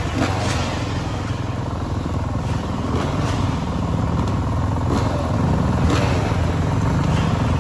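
Dirt bike engine running steadily at a fairly even speed.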